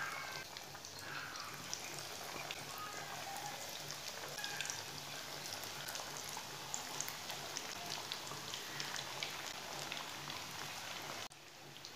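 Egg-and-breadcrumb-coated semolina snacks deep-frying in hot oil in a pan: a steady sizzle with many small crackles and pops. The sizzle drops off sharply near the end.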